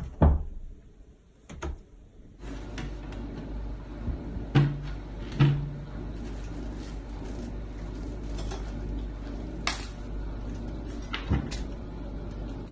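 Several sharp knocks and bangs over a steady background hiss, the loudest about four and a half and five and a half seconds in.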